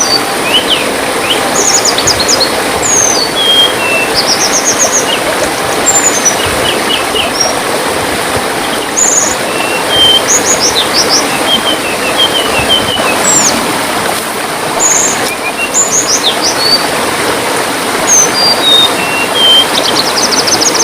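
Tledean birds singing: many short, high chirps, quick downslurred whistles and fast trills, over a steady trickle of running water.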